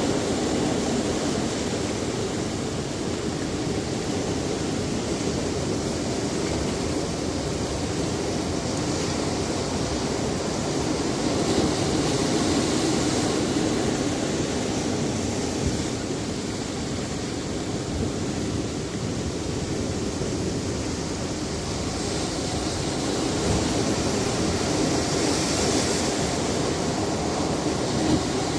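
Sea surf on a rocky shore: a steady rush of breaking waves that swells and ebbs every few seconds.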